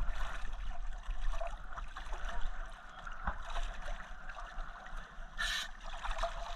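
Water sloshing and splashing over a steady low rumble, with one short hissing splash about five and a half seconds in.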